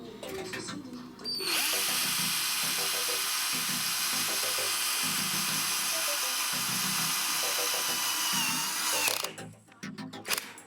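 Power drill running steadily for about seven seconds, driving self-tapping metal screws with press washers into steel drywall profile. It starts about a second and a half in and cuts off abruptly near the end.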